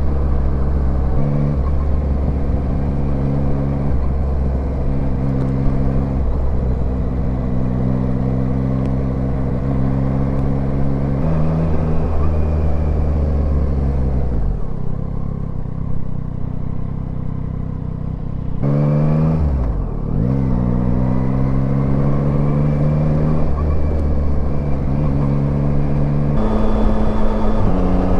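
Yamaha Tracer 9's inline three-cylinder engine running under way, with wind rushing past. Its pitch changes in steps several times. About halfway it eases off, then comes back with a quick dip and rise in pitch.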